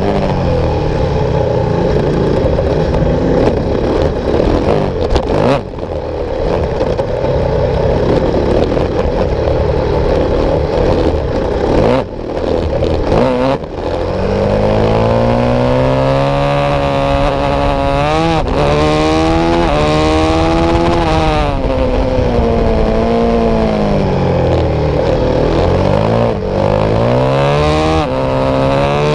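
Supermotard motorcycle engine heard from onboard at racing speed, revving up through the gears and falling away as the throttle closes for corners. The note dips briefly a few times in the first half, then rises and falls over and over from about halfway on.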